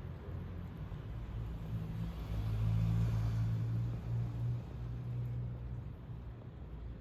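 A car passing on the road: a low engine hum and tyre noise swell up about two seconds in and fade out again around five seconds.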